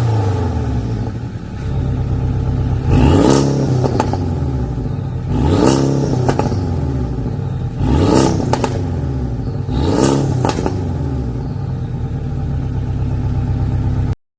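Porsche 718 Boxster's turbocharged flat-four with a custom downpipe, revved in four quick blips a couple of seconds apart, each rising and dropping back to idle, with a few pops from the exhaust after some blips. The sound cuts off abruptly near the end.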